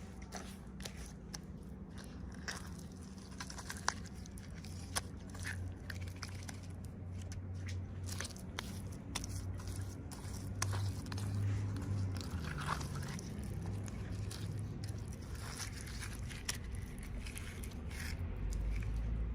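Close-up handling noises of toy packaging being opened: scattered sharp clicks, crinkles and scrapes of plastic and cardboard, over a low steady hum.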